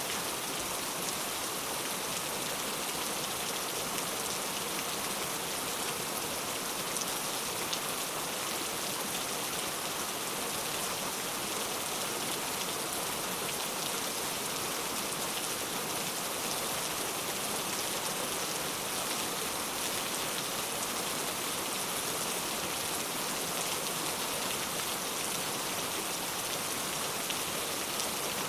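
Heavy rain falling steadily: a dense, even hiss with fine scattered drop ticks.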